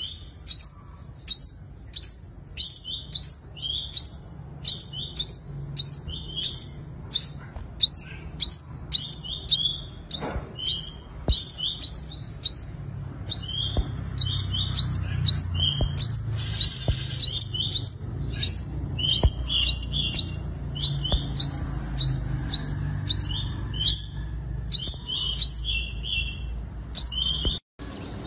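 A sunbird singing a long, fast run of sharp, high chirps, about two a second, with many notes sliding downward, over a faint low hum. This is the competitive song used to call in or challenge a rival male.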